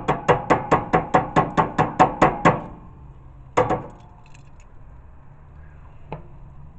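Rapid sharp tapping of a hard object, about five taps a second for two and a half seconds, then a pair of taps about a second later: something being knocked to shake sauce off it.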